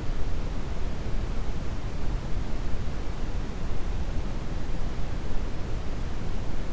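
Steady brown noise: an even, unchanging rush with most of its weight in the deep low end.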